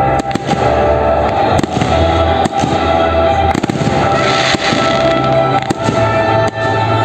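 Aerial fireworks bursting in quick succession, sharp bangs and crackling, over music that plays throughout.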